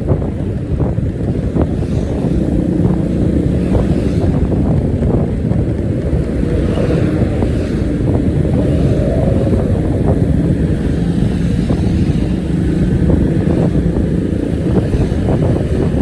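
A bus engine running steadily, its exhaust giving a deep, rough, snoring rumble.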